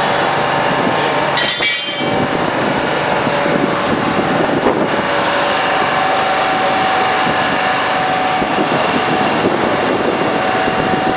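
Steady noise of vehicle engines running on a city street, with a brief clatter about a second and a half in.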